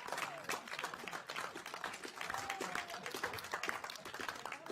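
A room of people applauding and cheering: dense, uneven hand clapping with voices calling out over it, one drawn-out shout about halfway through.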